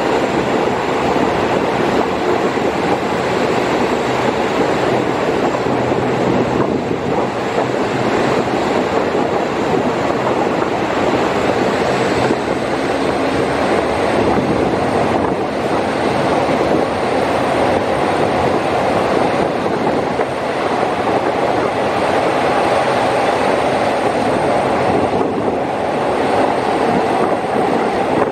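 SRT ordinary passenger train heard from inside the coach as it pulls out of a station and runs on: a steady rumble of wheels on rails with a faint high whine above it.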